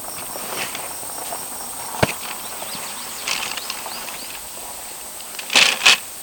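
Quiet outdoor ambience with faint short chirps, a single sharp click about two seconds in, and two brief rustling crunches near the end.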